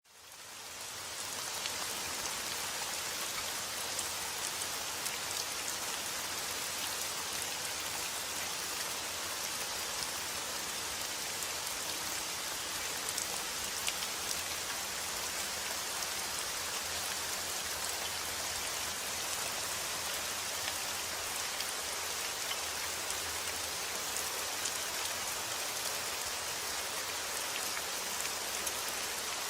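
Steady rain falling on a surface, a dense even hiss with scattered fine drop ticks, fading in over the first second or two.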